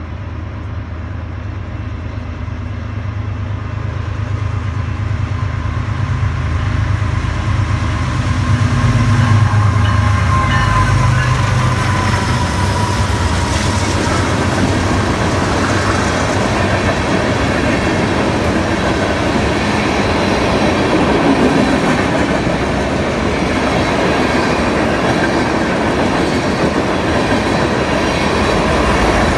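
BNSF freight train passing: the diesel locomotives' deep rumble builds as they approach and peaks about ten seconds in, then the steady rolling rumble and clatter of the freight cars going by.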